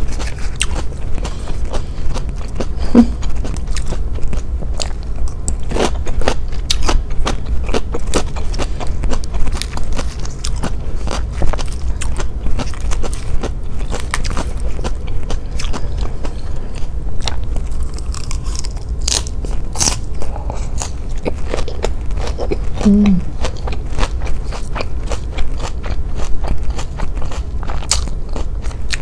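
Close-miked crunchy chewing of raw salad greens and vegetables: a dense stream of crisp crunches, with two brief hums of the voice, a few seconds in and again late on.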